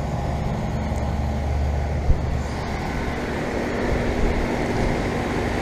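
Central air conditioner condenser units running: a steady hum of compressor and fan, with one short knock about two seconds in.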